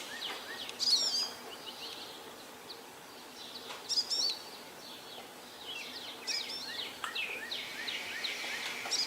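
Songbirds singing: several short, quickly warbling song phrases a few seconds apart, with fainter chirps between them over a light background hiss.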